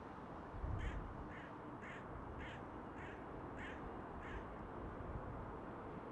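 A bird calling: seven short, harsh calls in an even series, about two a second, that stop a little past the middle. A steady low background rumble runs under them.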